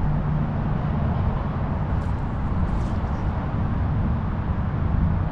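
Steady low rumble of a distant engine, with two faint ticks about two and three seconds in.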